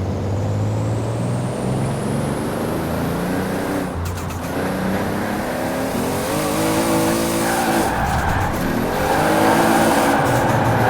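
Single-turbo Toyota Supra RZ's 2JZ-GTE straight-six accelerating hard through the gears: the engine pitch climbs, drops at a shift about four seconds in and again about eight seconds in, then climbs again. A high whistle rises with the revs over the first few seconds as the turbo spools.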